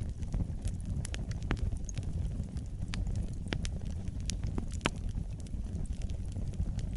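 Fire burning in a fireplace: a steady low rumble of flames with many sharp crackles and pops scattered at irregular moments.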